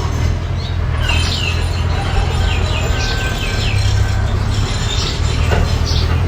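Mini bulldozer's engine running steadily, with a series of short high squeals that glide downward over it.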